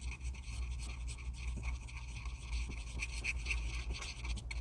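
Faint scratching and small handling noises over a steady low hum.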